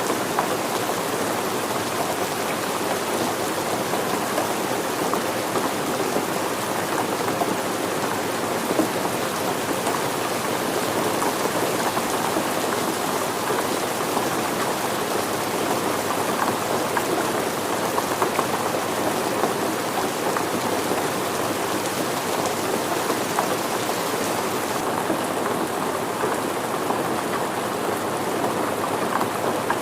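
Steady rain falling, a dense, even patter of drops. About 25 seconds in, the high hiss turns duller.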